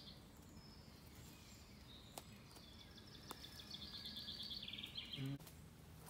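A songbird singing: a trill of quickly repeated high notes, about three seconds long, dropping slightly in pitch and ending in a faster flourish. A few sharp clicks and faint outdoor background noise lie under it.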